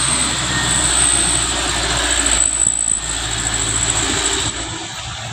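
Heavy truck's diesel engine running steadily, a low drone with a high steady whine above it, easing off a little near the end.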